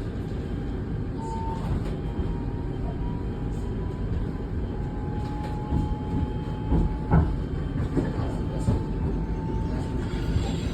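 Inside a T12 tram-train running between stops: a steady rumble of wheels on rail with a faint whine from the traction motors. A sharp knock about seven seconds in.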